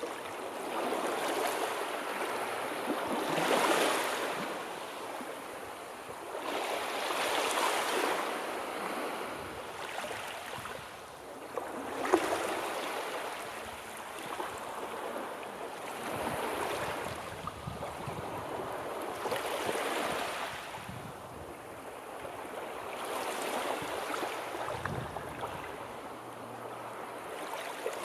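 Sea waves breaking and washing in, the hiss swelling and fading in a slow rhythm about every four seconds.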